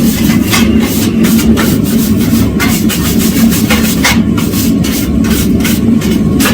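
Wire brush scrubbing scale off red-hot steel in quick, repeated strokes, cleaning it before fluxing for a forge weld. A propane forge runs steadily underneath.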